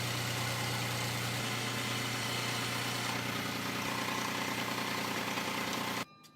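A steady low mechanical hum, like a motor running, that cuts off abruptly about six seconds in.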